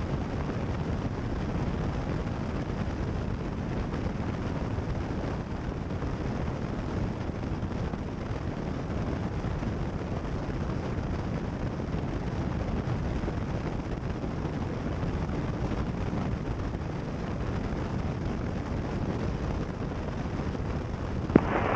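Steady drone of a Cessna 172 Skyhawk's engine and slipstream in flight, heard through the cockpit headset intercom.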